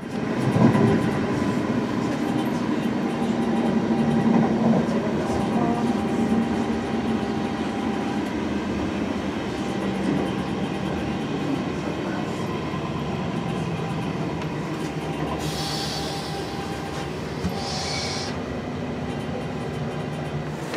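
Westbahn electric train running at speed, heard from inside the carriage: a steady rumble of wheels on rail with a faint whine running through it. Two short hisses come a little before the end.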